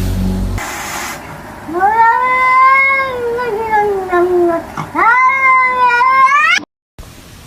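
A cat giving two long, drawn-out meows. The first lasts about three seconds and slides down in pitch; the second is shorter and rises sharply before it cuts off.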